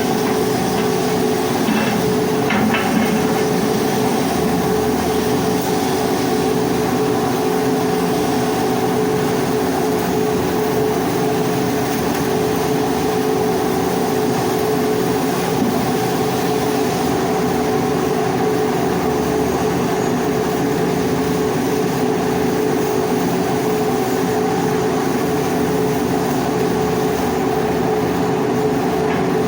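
Welding in progress on a pipe being hardfaced: a continuous crackling hiss over a steady machine hum.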